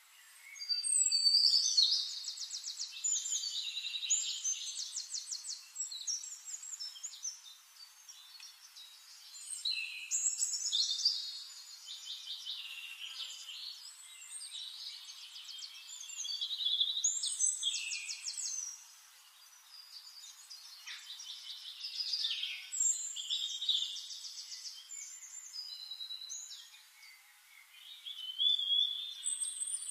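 A songbird singing in phrases of fast trills and high whistles, a new phrase every few seconds with short pauses between.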